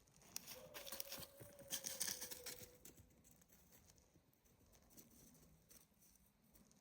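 Rustling and crackling close to the microphone for the first three seconds. Over it comes one long, slightly wavering, drawn-out bawl of a distant treeing walker coonhound, held for about two seconds.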